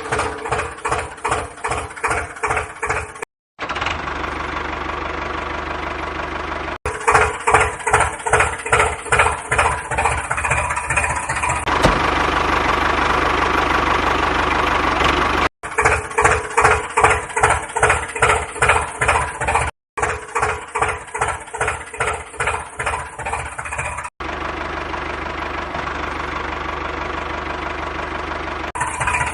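Tractor engine running, in stretches of rhythmic putting thumps about three a second that alternate with a steadier running hum, cut together with abrupt breaks between clips.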